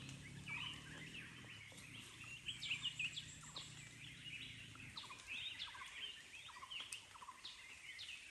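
Several wild birds calling: many short, quick chirps and whistled notes overlapping, faint. A faint low hum underneath stops about five seconds in.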